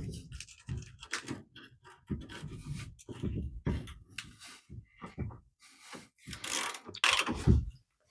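Irregular scraping and rubbing with a few knocks, as tools work on the rusted fuel-tank strap hardware of a pickup.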